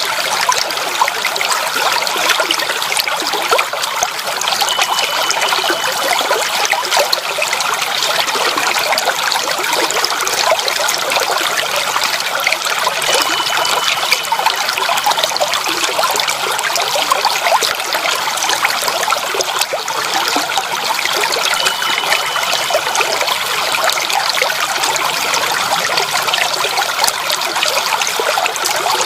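Water trickling and babbling steadily, like a small stream, with an even, unbroken flow.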